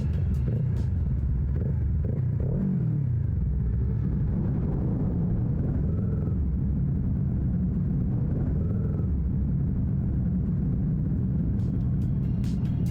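Motorcycle engine running steadily, its pitch gliding up and down a couple of seconds in.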